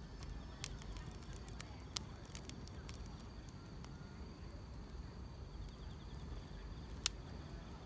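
Wood fire crackling, with scattered sharp pops, the loudest about seven seconds in, over a low steady rumble; grass insects (crickets) chirr faintly and steadily in the background.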